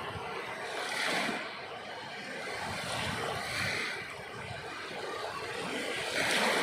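Sea waves surging in, three swells of rushing water about every two and a half seconds.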